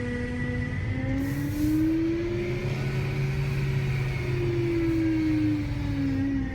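BMW E92 M3's V8 engine running with a distinct whine. The whine rises in pitch about a second in as the revs come up, holds, then falls back near the end as the revs drop.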